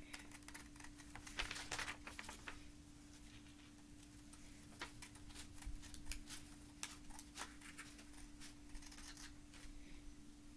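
A sheet of paper being worked by hand: faint rustles and clicks, busiest about a second and a half to two and a half seconds in, over a steady low hum.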